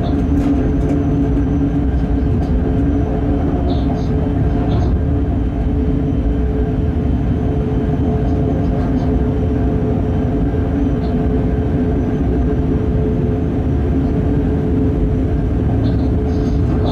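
Electric freight locomotive running steadily at speed, heard from its cab: a low rumble of wheels on the rails with a steady hum from the traction equipment, and a few faint ticks.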